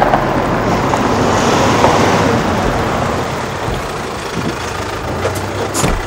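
A vehicle's engine and tyre noise, swelling about two seconds in and then easing off as it pulls up, with a sharp click near the end.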